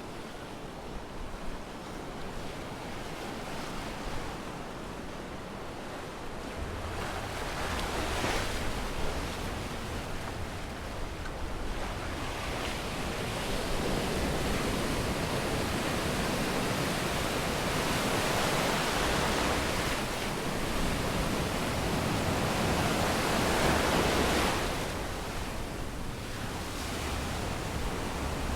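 Sea surf breaking and washing up a sandy beach, a steady hiss of water that swells with each set of waves: one surge about eight seconds in, and a longer build that peaks near the end before easing.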